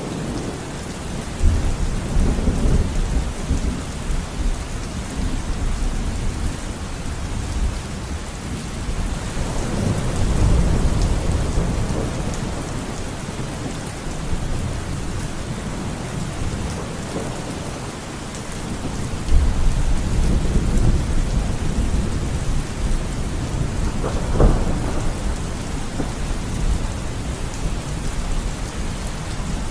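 Steady heavy rain with thunder: deep rolls of thunder rumble in and fade several times, and a short, sharper thunderclap comes near the end.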